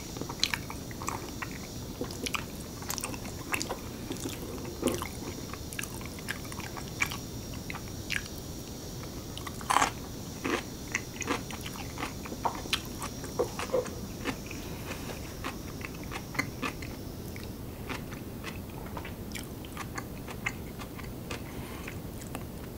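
Close-miked mouth sounds of a person eating curry rice and kimchi: wet chewing, biting and crunching with scattered sharp clicks. A thin, steady high drone of cicadas sits underneath and stops about three-quarters of the way through.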